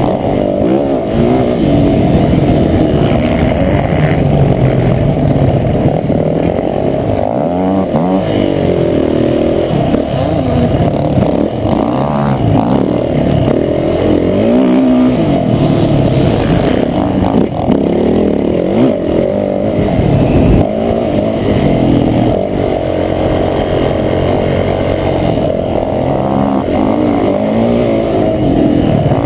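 Motocross bike engine revving hard and backing off again and again as it is ridden around a track, with the pitch repeatedly climbing and dropping, heard muffled from a GoPro mounted on the rider or bike.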